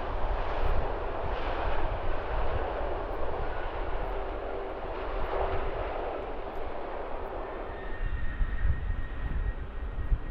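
Airplane engines: a steady rush over a low rumble, its higher part thinning about eight seconds in as a faint steady whine comes through.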